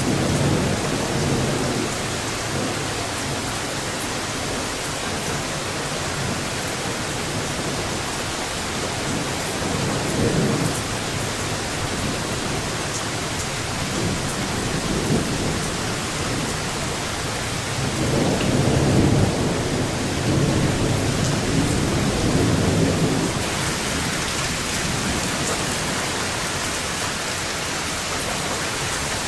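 Steady rain falling, with thunder rumbling low several times; the longest and loudest rumble comes about two-thirds of the way through.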